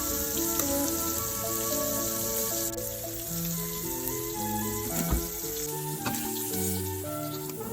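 Food frying in hot oil in a pan, a steady sizzle, under light background music with a gentle melody. There is a single knock about five seconds in.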